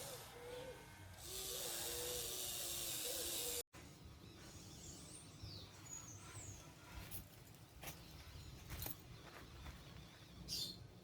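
A steady hiss for about two seconds that cuts off suddenly, then quiet outdoor background with a few bird chirps and scattered clicks.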